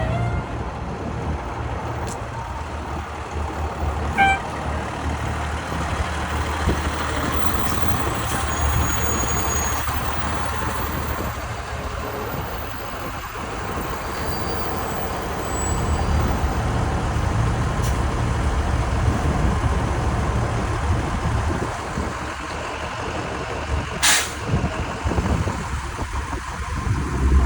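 Diesel engines of fire trucks running as the trucks pull away, a steady low rumble that grows louder a little past halfway. A short sharp hiss of air brakes comes about three-quarters of the way through.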